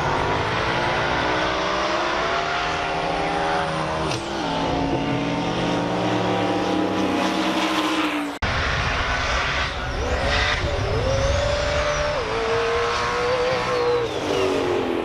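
LS V8 race car engines revving hard, their pitch rising and falling, with tyre squeal. The sound cuts off abruptly about eight seconds in and goes straight into another run.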